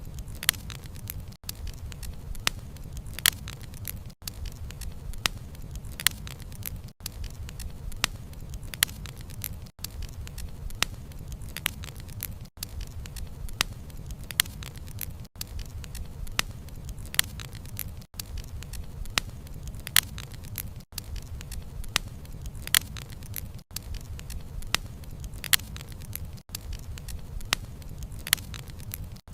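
Wood fire burning: a low steady rumble of flames with frequent sharp crackles and pops from the burning wood. The sound dips out briefly about every three seconds.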